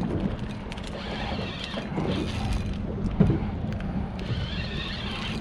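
Spinning reel being cranked on a fishing rod, a mechanical whir with creaks and clicks, over the steady low hum of the boat's idling motor.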